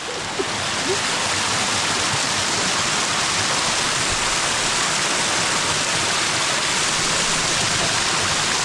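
Natural waterfall: water falling and rushing in a steady, loud, even roar.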